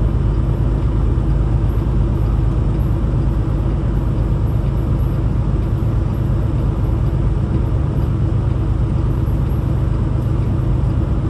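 Peterbilt 579 semi truck's diesel engine running with a steady low drone, with tyre and road noise, heard from inside the cab while driving slowly.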